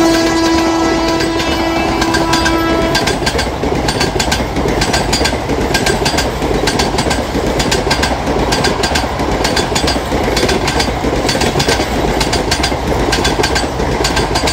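Passenger train coaches rolling past at speed: a constant loud rumble with a rapid clatter of wheels over the rail joints. The WAP-4 electric locomotive's horn sounds one long steady note at first, stopping about three seconds in.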